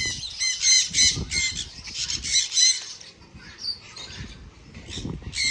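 A parrot squawking over and over in short, high calls, about three a second for the first three seconds, then fainter and further apart.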